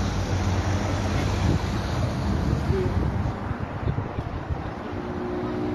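Car engines running close by, with wind buffeting the microphone. Near the end a steady engine hum sets in as another car pulls up.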